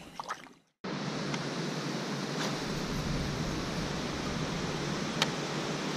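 Steady wind noise on the microphone with the hiss of open water, starting abruptly after a brief cut to silence. Two faint clicks are heard within it.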